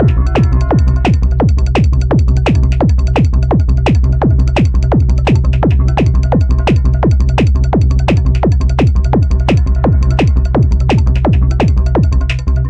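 Electronic dance music played live on a Korg Electribe 2 groovebox: a steady pulse of drum-machine hits that drop in pitch, about three a second, over a sustained deep bass drone. Just before the end the low bass cuts out and the pattern changes.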